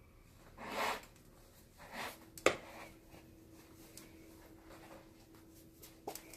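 Short rubbing and scraping of a leather baseball glove being worked on by hand, twice, followed by a sharp click about two and a half seconds in and a small tick near the end.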